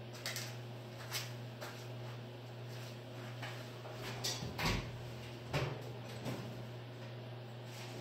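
Scattered knocks and clatter of drawers and cabinets being opened and rummaged through in a garage, the loudest a little past halfway, over a steady low hum.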